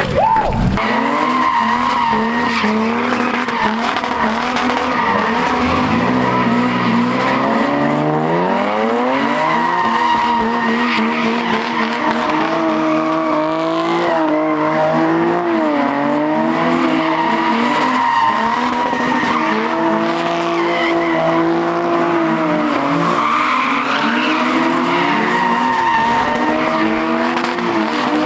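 A car drifting, its engine revving hard with the pitch rising and falling, and its tyres squealing.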